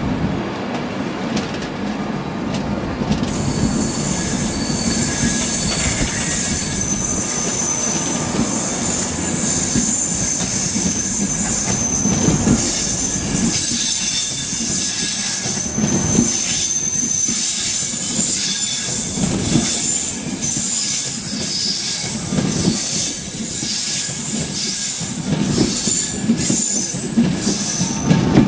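A train running through on the rails, its wheels squealing in thin high tones from about three seconds in, over a low rumble. Through the second half the wheels clatter over rail joints.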